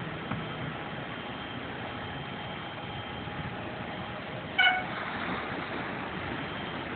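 A single brief vehicle horn toot about two-thirds of the way in, over a steady background hiss of traffic and car-wash noise.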